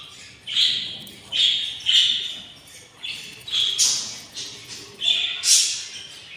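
Budgerigar chicks in the nest giving repeated harsh begging calls, about one or two a second: hungry chicks asking to be fed.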